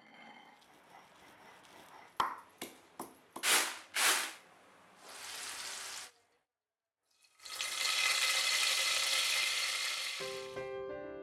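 A few sharp clicks and short hissing swishes, a moment of quiet, then about three seconds of loud, steady sizzling of food frying in a hot pan. Piano notes come in near the end.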